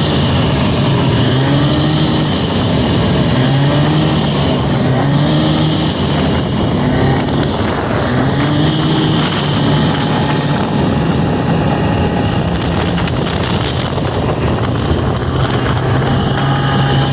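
1979 Arctic Cat Pantera snowmobile's two-stroke engine running under way, its pitch rising and falling every couple of seconds as the throttle is worked, then holding steadier through the second half.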